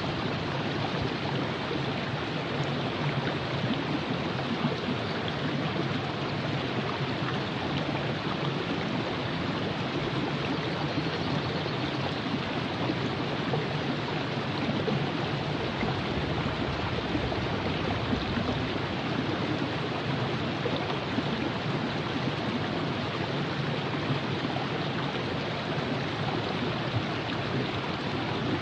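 The Virgin River flowing over rocks in a steady, even rush of water.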